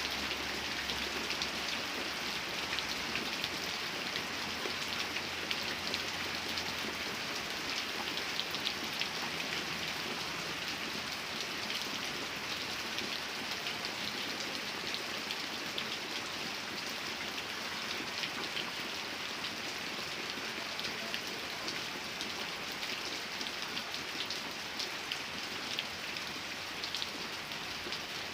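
Steady rain falling and pattering on a surface, with many small drop ticks through an even hiss.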